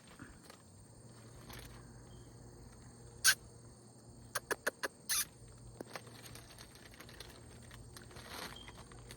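Scattered sharp clicks and taps over a faint low hum: one loud click about three seconds in, then a quick run of them a second or so later, and a short rustle near the end.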